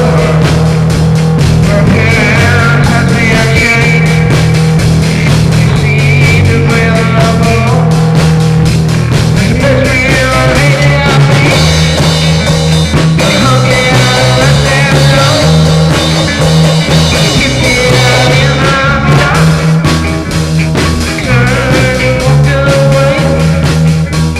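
Psychedelic rock music playing loud and steady, an instrumental stretch with no singing.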